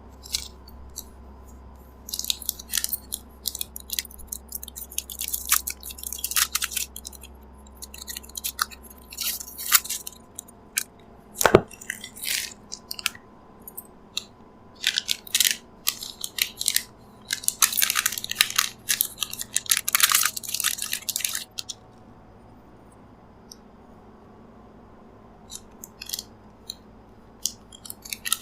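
Chocolate bar wrappers crinkling and crackling as they are handled and torn open, in bursts of sharp, high crackles with a pause between them and one loud knock about eleven seconds in.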